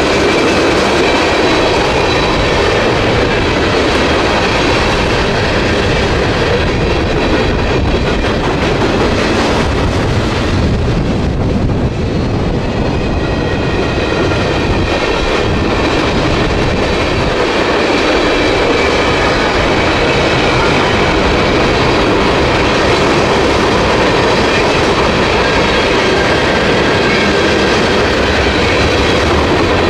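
A train passing close by at a road crossing: the steady, loud noise of railcars rolling over the rails.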